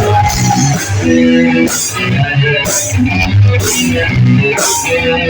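Live rock band playing: guitar and bass guitar with drums, with a hissy cymbal hit about once a second.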